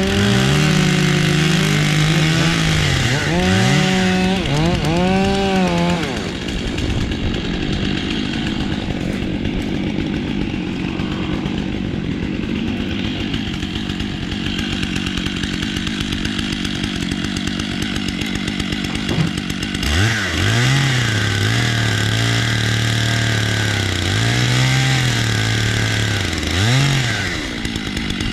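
Two-stroke chainsaw running hard, its engine note dipping and recovering again and again as it bogs in the cut. From about 6 s to about 20 s there is a long stretch of steady buzzing cutting noise with no clear pitch. After that the engine returns at a lower pitch, with more dips until near the end.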